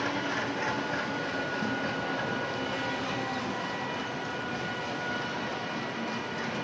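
ALCO diesel locomotive running, a continuous steady engine drone with faint held whining tones over it.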